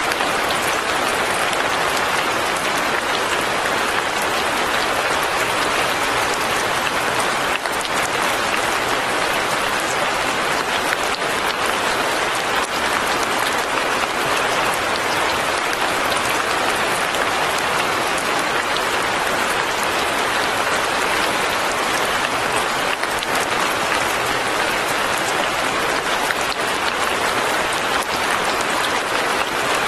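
Steady fine rain falling, a dense, even patter of many small drops that does not let up.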